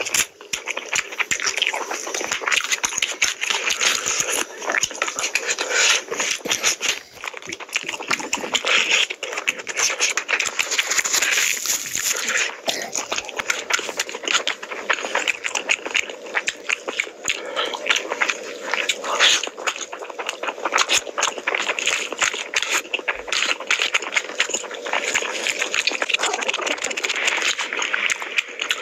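Close-miked open-mouth chewing and lip-smacking, with fingers squishing and mixing food on a steel plate: a continuous run of wet clicks and smacks.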